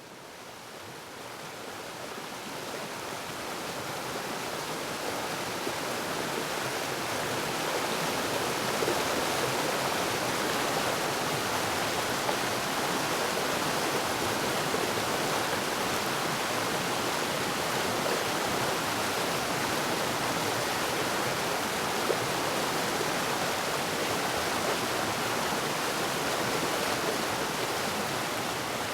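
Waterfall: a steady rush of falling water that fades up over the first several seconds and then holds even.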